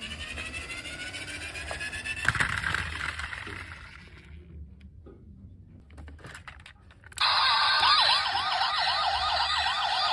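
Electronic siren sound effects from toy emergency vehicles. Rising tones fade out about four seconds in. After a quieter gap with a few clicks, a fast yelping wail of about four cycles a second starts abruptly about seven seconds in.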